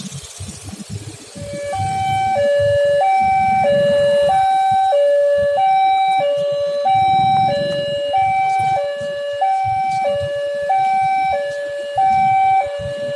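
Railway level-crossing warning alarm sounding: an electronic two-tone signal that alternates steadily between a higher and a lower note, each held a little over half a second, starting about two seconds in. It warns that a train is coming and the crossing gate is closing. Road traffic rumbles underneath.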